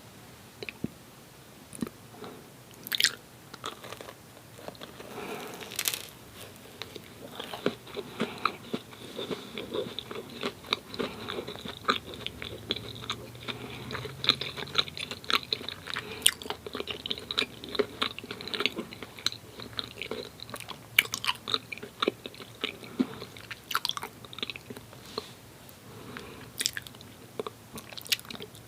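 Close-miked mouth sounds of someone biting and chewing doughnuts: a few separate bites and smacks at first, then steady chewing with many small wet clicks from about seven seconds in.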